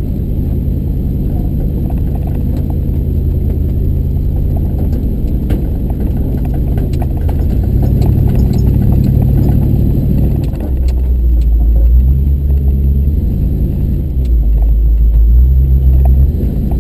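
Truck engine running hard under load, its pitch stepping up and down several times as it pulls uphill, with light clicks and clinks over it.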